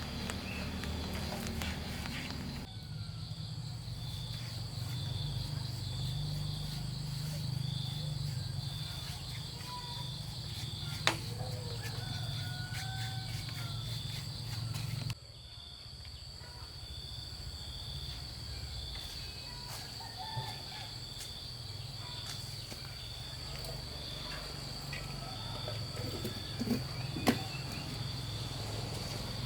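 Insects chirping outdoors: a steady high buzz with a rhythmic pulsing chirp beneath it, over a low steady rumble. A sharp knock comes about eleven seconds in and a couple more near the end.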